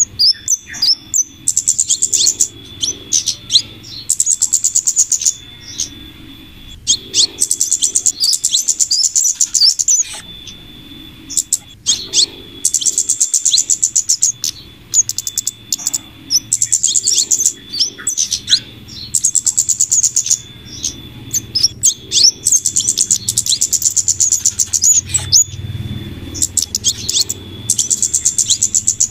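Bird-lure recording of flowerpecker calls combined with female scarlet minivet calls: bursts of very rapid, high chittering trills repeating every few seconds with short gaps between, over a faint steady high tone.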